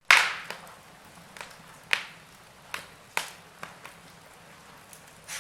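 Wood fire crackling: irregular sharp pops and snaps about every half second to a second over a faint hiss, with the loudest pop right at the start.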